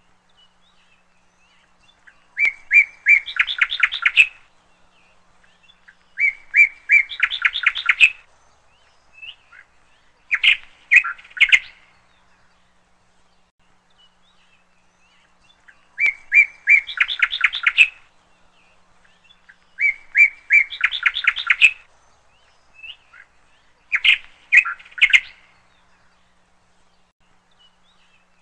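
A songbird singing: phrases of a couple of seconds each, a few clear notes then a quick run of chirps, six phrases in all with pauses between. The same three phrases come round again about every 13 to 14 seconds.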